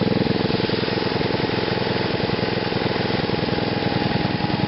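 Small gasoline engine running through a GEET fuel-reformer reactor, idling steadily with an even, rapid firing beat.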